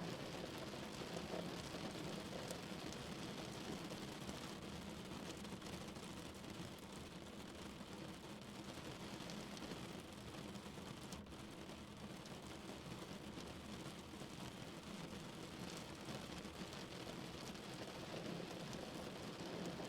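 Steady rain falling on a car's roof and windows, heard from inside the cabin, with scattered individual drop hits.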